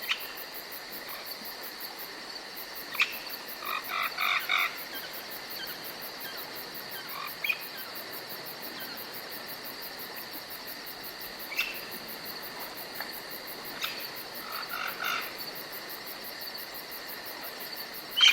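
Forest night ambience: a steady high chirring of crickets and other insects, with a fast high-pitched pulsing over it. Short pulsed animal calls come in quick clusters about four seconds in and again near fifteen seconds, and a few sharp single chirps are scattered between them.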